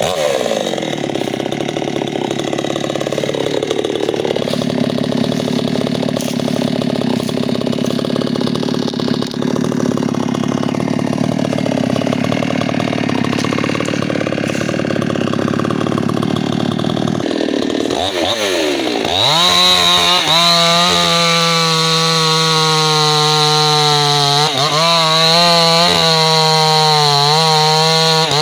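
Two-stroke chainsaw at full throttle cutting into a tree trunk, its engine note low and wavering under the load of the cut. About two-thirds of the way through, the pitch rises sharply to a higher, steady note as the chain runs free, dipping briefly twice near the end.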